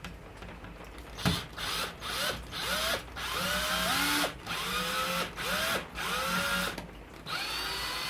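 Power drill driving a screw into wood in short stop-start bursts, about eight of them, the motor whine rising in pitch each time the trigger is squeezed. The screw is only going down slowly.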